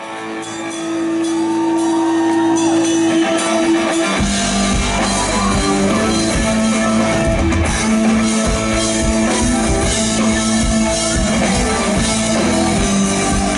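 Live rock band playing a song's instrumental intro: held guitar notes, then drums and bass come in about four seconds in and the band plays on at full level.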